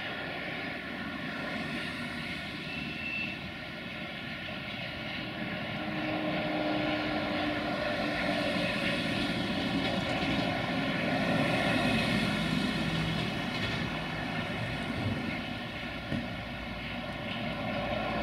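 Freight train of tank wagons rolling along the track, a steady rumble with several steady high tones ringing above it, growing louder partway through.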